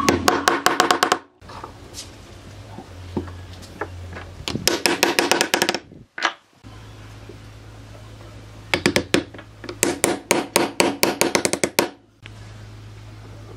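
Rapid hammer-like strikes, about ten a second, in several short runs, with a ringing pitch to each blow.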